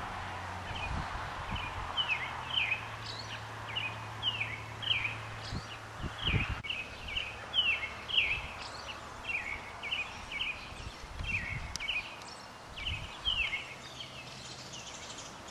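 A bird calling over and over: short chirps that slide down in pitch, two or three a second in uneven runs, over a steady outdoor hiss. A few low thuds sound along the way.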